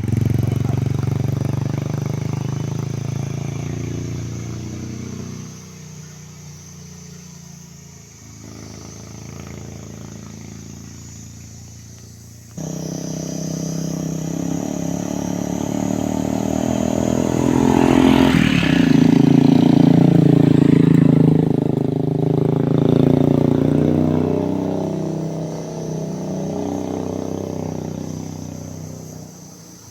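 Motor vehicle engine running, fading away over the first several seconds. About twelve seconds in the sound jumps abruptly, and an engine rises to a revving peak a few seconds later before fading again.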